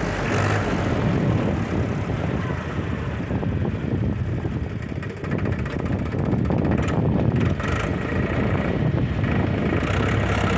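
Heavy diesel engine running steadily, easing slightly about halfway through, with a few brief knocks near the end.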